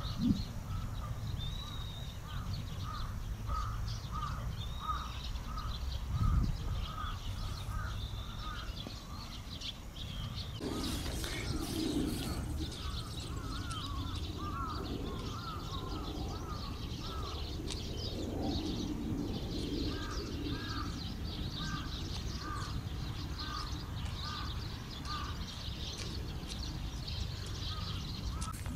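A flock of Eurasian tree sparrows chirping busily, with short high notes throughout. Through it another bird gives runs of evenly repeated lower calls, about two a second, over a steady low background rumble.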